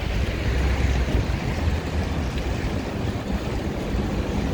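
Steady low rumble and hiss of city street traffic, with wind on the microphone.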